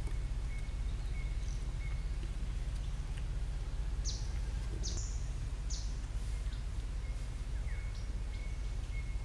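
Forest ambience with wild birds calling: three short, high, falling chirps in quick succession about four to six seconds in, a few fainter chirps, and a thin tone that comes and goes, over a steady low rumble.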